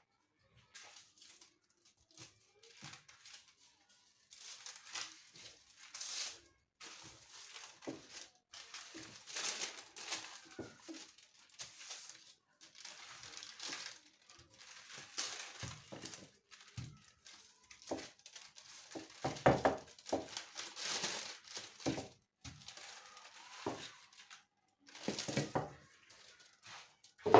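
Rustling and crinkling handling noises in irregular bursts, broken by short pauses and a few knocks, with a louder knock at the very end.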